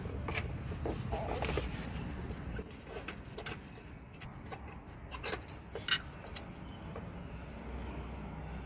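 Scattered light clicks and taps of hand tools and bolts being handled while the intake manifold is unbolted, a few sharper clinks about five to six seconds in, over a steady low hum.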